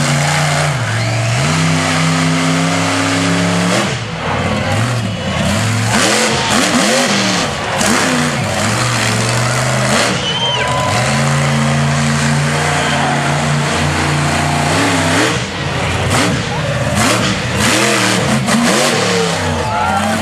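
Monster truck engine running loud, its pitch held steady at high revs for a couple of seconds, then revving up and down, then held steady again for about five seconds before dropping away into more revving near the end.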